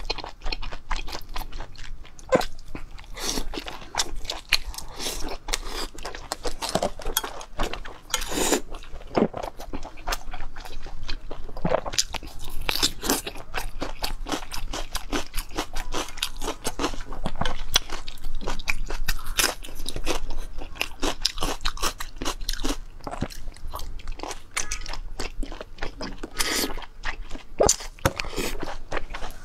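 A person biting and chewing crunchy food, a dense run of crackling crunches with a few louder bites.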